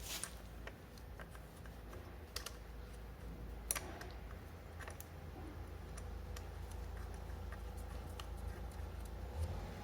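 Scattered light clicks and taps at an irregular pace, one sharper click a little under four seconds in, as of hand tools and small parts being handled, over a low steady hum.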